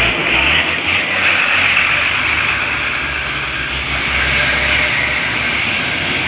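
A heavy vehicle going by close on the road: a low engine drone under loud, steady road and tyre noise.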